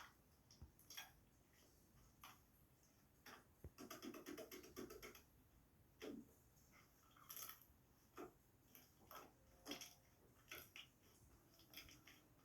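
Paper being handled and folded: soft, irregular rustles and small crisp clicks, with a quick run of rapid creasing ticks about four seconds in.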